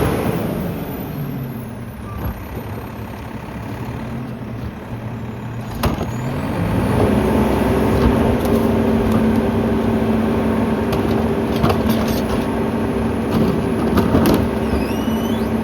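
Mack LEU garbage truck's diesel engine running while the McNeilus rear loader's hydraulics cycle the packer. The engine speed steps up about seven seconds in and holds steady under the hydraulic load. A few sharp knocks from the packing are mixed in.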